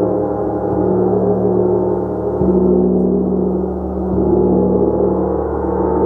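Gong played continuously in a sustained, swelling wash of many overlapping ringing tones, with a fresh soft stroke adding a deeper tone about two and a half seconds in.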